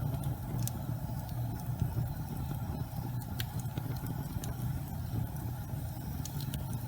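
Fireplace fire burning with a steady low rumble and a few sharp crackles scattered through it.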